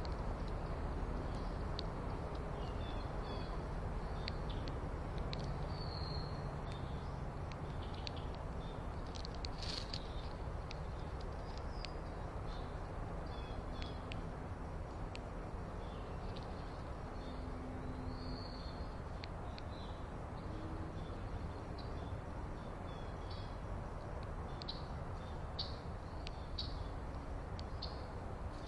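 Small songbirds chirping, short high calls scattered throughout, over a steady low background rumble.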